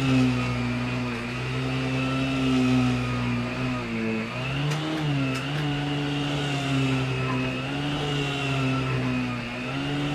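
Vacuum cleaner running with its brush roll on the floor: a steady motor hum with a higher whine, the pitch dipping briefly about four seconds in, with a few faint clicks.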